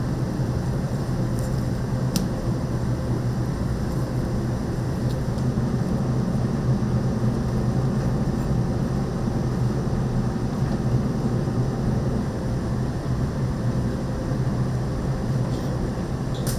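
Steady low mechanical rumble with no change in level, and a faint sharp click about two seconds in.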